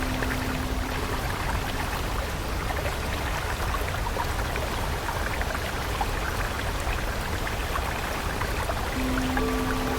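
Flowing stream of water, trickling and splashing steadily with many small droplet sounds. A soft held musical tone fades out about two seconds in, and new held tones come in near the end.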